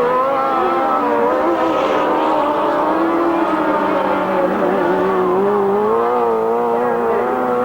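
Several grasstrack racing motorcycle engines running together, their pitch rising and falling as the riders throttle on and off.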